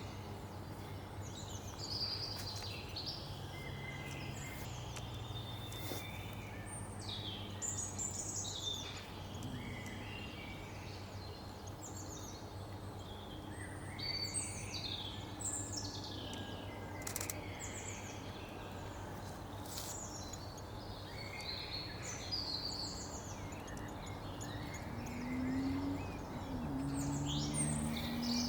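Several small woodland birds chirping and calling in quick, overlapping notes over a steady low background hum, with a few low-pitched calls near the end.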